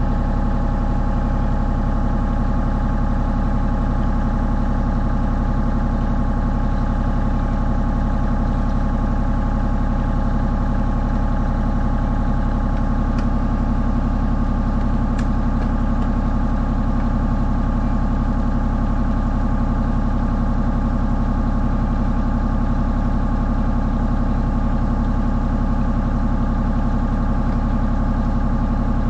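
Mini excavator's diesel engine running steadily at an even pitch, heard up close from the operator's seat, with a couple of faint clicks midway.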